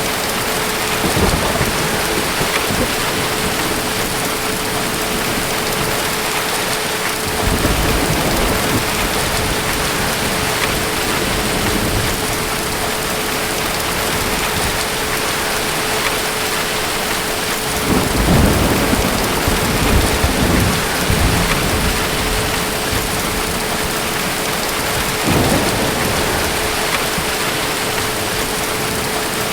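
Steady heavy rain with distant thunder rolling in low rumbles four times, the longest and loudest about eighteen seconds in. A faint steady hum runs under it.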